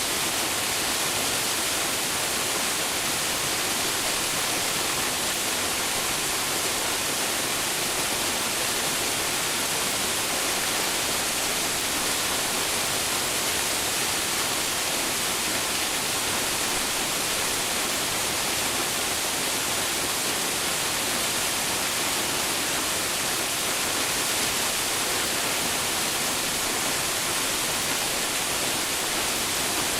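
Waterfall, water falling and splashing in a steady, unbroken rush that is strongest in the high range.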